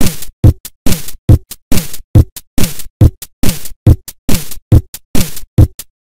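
Electronic drum-machine beat playing alone: a kick drum with a falling-pitch thud hits a little over twice a second, each followed closely by a lighter, crisper hit.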